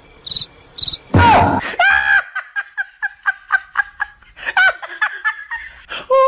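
A child giggling in a rapid run of short, high laughs, about four a second, after a louder outburst about a second in. Three short high beeps come right at the start.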